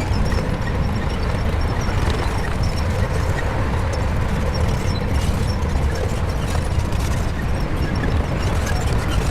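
Shantui bulldozer's diesel engine running steadily under load, a continuous deep rumble as the dozer works.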